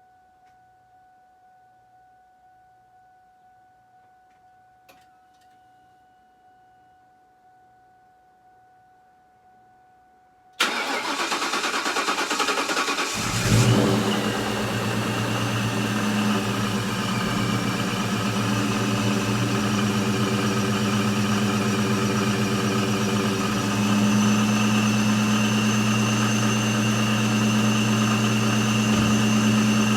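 A supercharged 2003 Mustang GT's 4.6-litre V8 is started cold for the first time after its supercharger build. After faint ticking and a steady tone, the starter cranks about ten seconds in, and the engine catches a couple of seconds later with a brief flare. It then idles steadily with a high whine over it.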